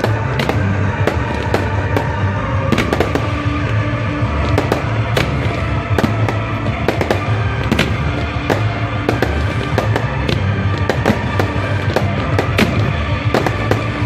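Fireworks going off in a rapid, irregular string of sharp bangs, several a second, over music with a steady low bass.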